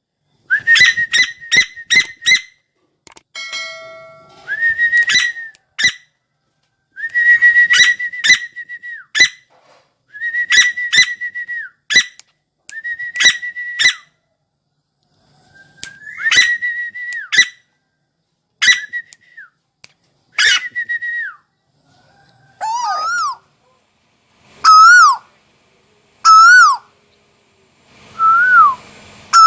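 Asian koel calling: loud repeated whistled notes, many of them in quick stuttering runs. Over the last several seconds they give way to louder single notes that each rise and then fall in pitch, repeated every second or two.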